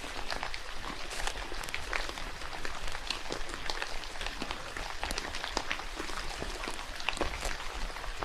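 Rain falling in a forest: a steady hiss with many scattered, irregular drop hits.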